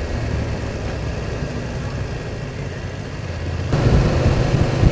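Motorcycle engine running steadily under way, with wind and road rumble; the sound turns abruptly louder and rougher near the end.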